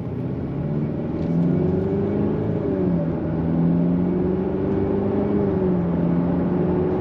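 Jaguar F-Type's engine heard from inside the cabin, pulling away and accelerating: its pitch climbs, then drops back twice as the automatic gearbox shifts up, over a steady hum of tyre and road noise.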